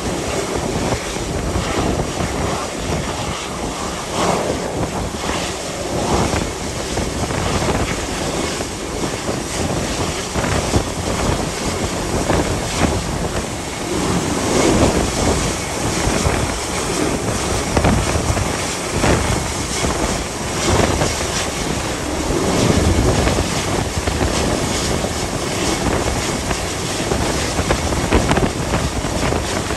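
Gale-force wind buffeting the microphone in irregular gusts, over a steady rush of wind and sea.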